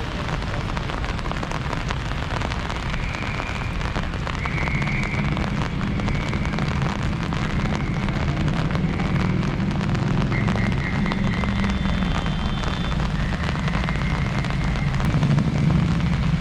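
Rain falling steadily on hard ground, a dense patter of drops, over a low rumble that grows louder near the end.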